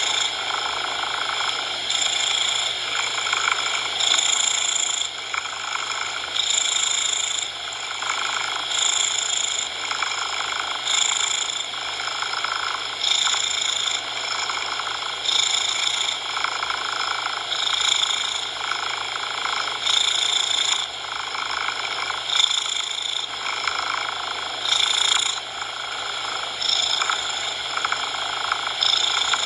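Cat purring over a steady layer of coloured noise. The purr swells and fades in a slow, even rhythm, about one cycle every two seconds.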